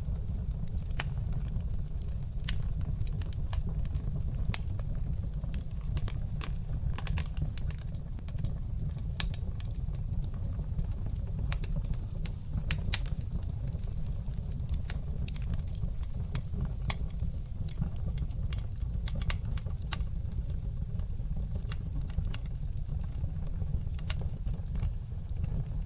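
Wood fire burning in a fireplace, crackling and popping irregularly, several sharp pops a second at times, over a low steady rumble.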